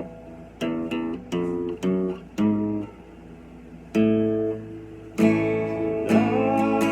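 Solo acoustic guitar playing an instrumental fill between sung lines, a string of picked notes and strummed chords with pauses between some of them.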